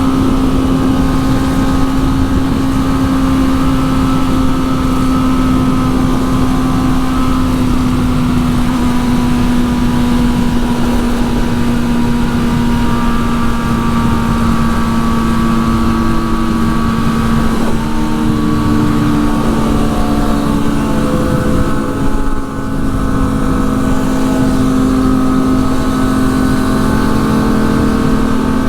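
Sport motorcycle engine running at a steady cruising speed, with wind rushing past, its note drifting only slowly in pitch; a brief throttle lift about three-quarters of the way through.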